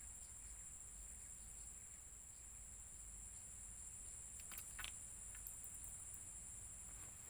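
Faint, steady high-pitched insect chorus from the swamp, with a few soft clicks or rustles a little past halfway.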